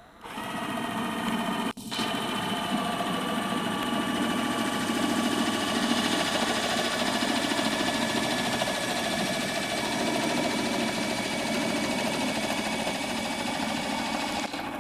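Cordless drill running as a homemade boat outboard, its electric motor and gearing whining steadily. It starts, cuts out for a moment about two seconds in, then runs on and drops in level near the end.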